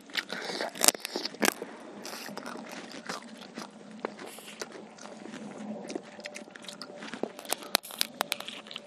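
Close-up mukbang eating sounds: biting and chewing fried chicken lollipops, with crunchy, crackly clicks throughout. The loudest bites come in clusters near the start and again near the end.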